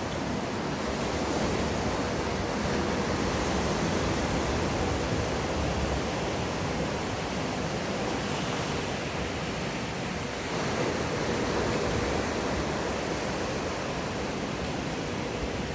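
Steady rushing wash of water from a breaking wave in a wave pool, mixed with wind on the microphone, with a faint steady hum coming in about two-thirds of the way through.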